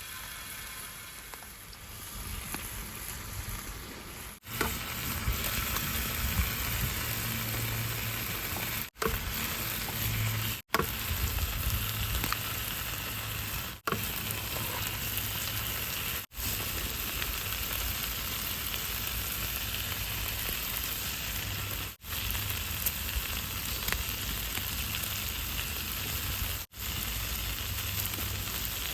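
Food frying on a multi griddle pan, a steady sizzle broken by several abrupt short gaps.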